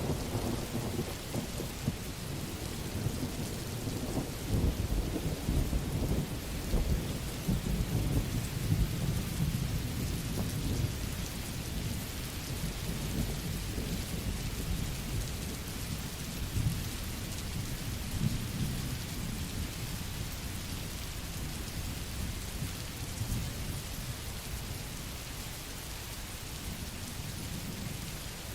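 Steady rain falling, with a long low roll of thunder that swells a few seconds in, peaks, and dies away by about twelve seconds in; fainter rumbles return a little later.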